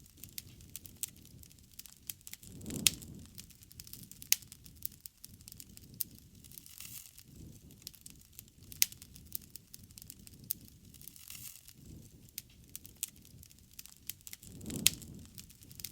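Campfire crackling: irregular sharp pops and snaps over a low rumble of burning. There are louder swells with strong pops about three seconds in and near the end.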